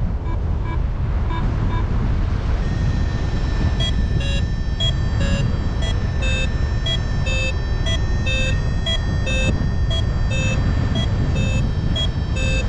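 Wind rushing over the microphone in flight, with a paragliding variometer beeping: sparse faint beeps at first, then from about four seconds in short beeps about twice a second, the vario's climb tone signalling rising air.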